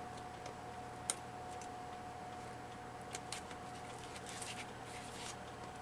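A few sharp clicks and snips of scissors cutting paper, the strongest about a second in and several lighter ones later, over a steady faint hum.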